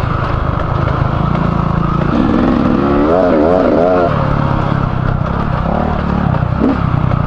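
Beta 300RR two-stroke enduro motorcycle engine running on the move. The revs rise and fall several times in quick succession around the middle as the throttle is worked.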